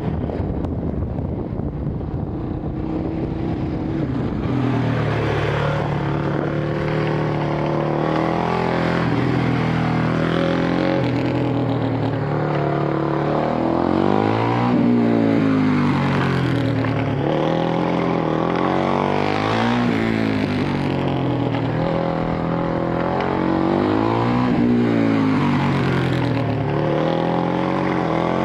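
Single-cylinder 450 cc engine of a Honda CRF450X-based track motorcycle under hard riding, its pitch repeatedly climbing as it accelerates and falling away as it slows, with steadier stretches and pitch steps in the first half.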